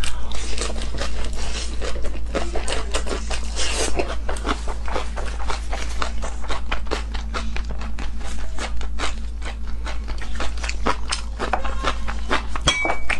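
Close-miked biting and chewing of a lettuce wrap filled with braised pork belly: crisp lettuce leaves crunching in a rapid, continuous string of crackles and wet mouth sounds, over a steady low hum.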